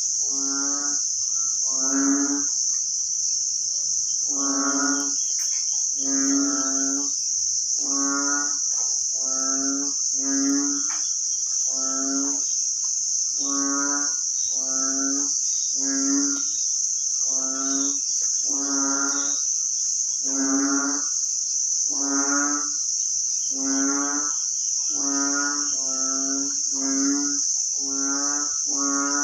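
A frog calling over and over, a short low pitched call about once a second with a brief pause a few seconds in, over a steady high-pitched drone of insects, crickets or cicadas.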